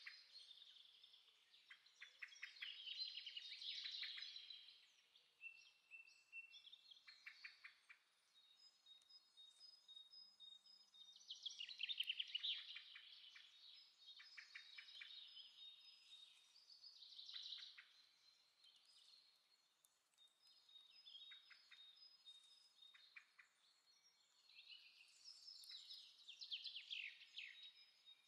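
Faint birdsong: bursts of rapid, trilled chirping come every few seconds, with thin, high held notes between them.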